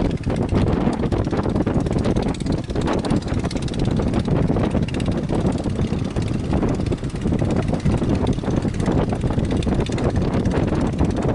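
Strong wind buffeting the microphone in a continuous, fluttering rush.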